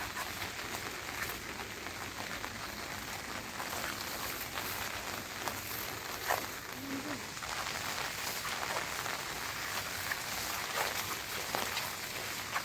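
Steady rain falling, with scattered small taps and knocks.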